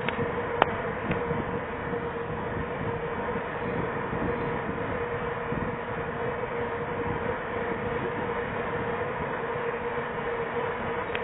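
Steady riding noise from a bicycle on pavement: wind on the microphone and tyre rumble, with a steady hum and a single sharp click about half a second in.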